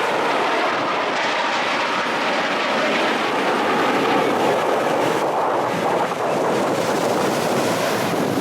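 Jet engine noise from a Blue Angels military jet flying past, a loud, steady rushing sound.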